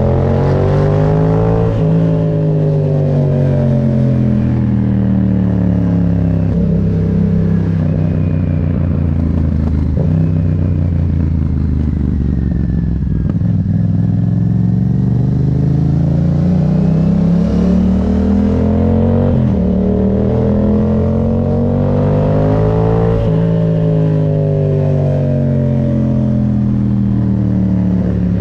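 Yamaha MT-07's 689 cc parallel-twin engine under way, its revs climbing hard through the middle with a quick gear change about two-thirds in, then falling away as the throttle is closed near the end, over steady wind and road noise.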